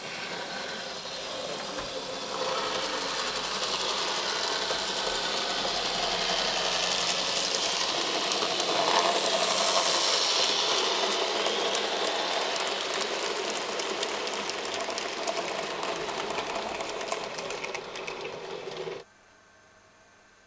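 Märklin mini-club Z-gauge model train running on its track: the whir of its tiny motor with the rattle of its wheels. It grows louder until about halfway through, eases off, then cuts off abruptly near the end.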